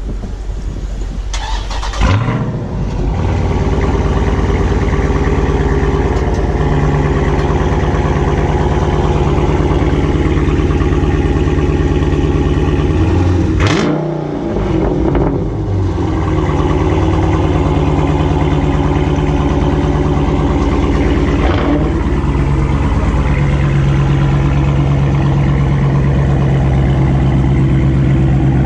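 Dodge Daytona's muffler-deleted HEMI V8 starting about two seconds in and settling into a loud, steady idle. Its note briefly dips and recovers about halfway through.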